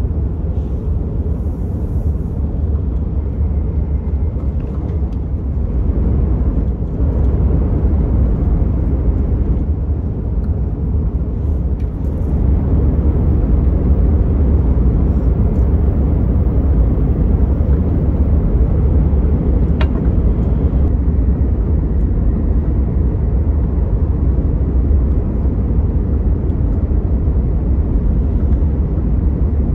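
Cabin noise of a Hokuriku Shinkansen bullet train running at speed: a steady low rumble that grows louder about six seconds in and again about twelve seconds in, as the train runs into a tunnel. A single light tick sounds about two-thirds of the way through.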